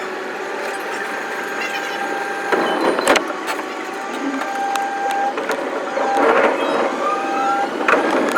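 Electric commuter train running, heard at five times speed: a jumble of short steady motor and wheel tones with sharp clicks, and rising whines near the end.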